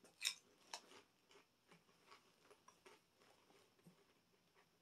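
Faint chewing of a puffed onion-ring snack: a couple of sharp crunches in the first second, then soft, scattered mouth clicks.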